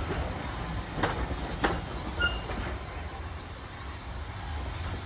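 Railway train running on the track: a steady low rumble of wheels on rail, with sharp clicks about a second in and again shortly after as the wheels cross rail joints.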